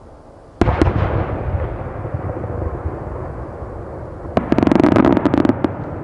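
Large aerial firework shells bursting: two sharp bangs about a quarter second apart, followed by a long rolling rumble. About four seconds in comes a dense, rapid crackling that lasts just over a second.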